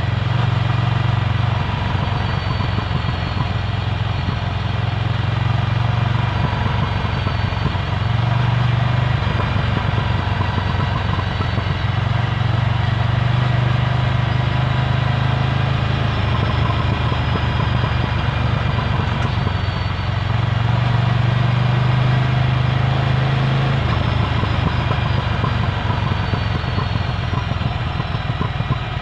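Ducati Scrambler Full Throttle's air-cooled 803 cc L-twin running through its Termignoni exhaust at low, fairly steady revs. The level rises and falls slightly a few times.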